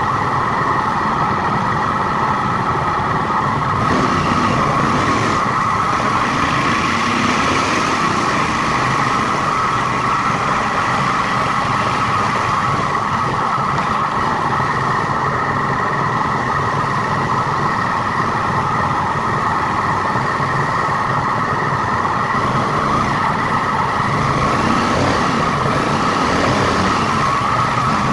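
A car driving, with steady engine and road noise running evenly throughout, the sound sped up to one and a half times normal speed.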